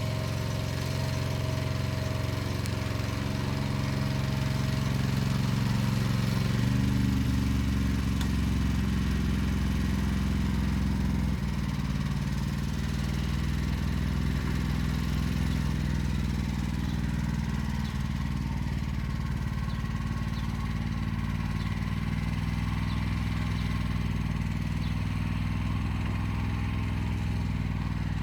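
Motor Sich walk-behind tractor engine running steadily as it pulls an arrow-type hiller along a row. The engine note shifts about a quarter of the way in and then holds steady.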